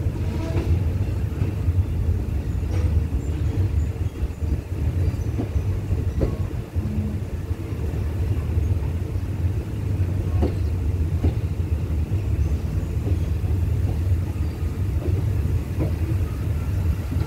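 Passenger train pulling slowly out of the station, heard from an open carriage doorway: a steady low rumble of the train under way, with a few single knocks as the wheels run over rail joints and points.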